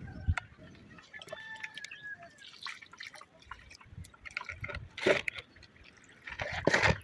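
Water dripping, with scattered small clicks and two louder short noises in the second half.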